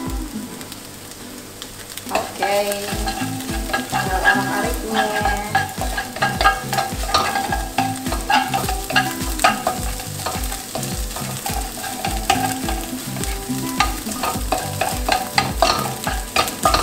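Egg sizzling in hot oil in a nonstick wok while a wooden spatula stirs and scrapes it. The stirring strokes and clicks get busier about two seconds in. A regular low beat runs underneath.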